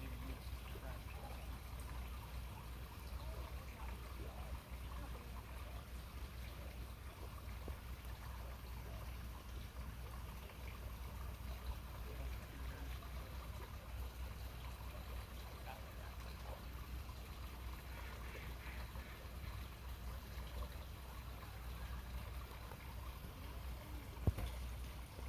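Faint, steady trickling water over a constant low rumble, with a single sharp click near the end.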